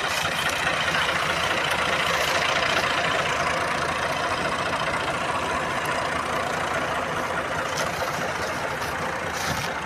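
Tractor engine running steadily at an even level.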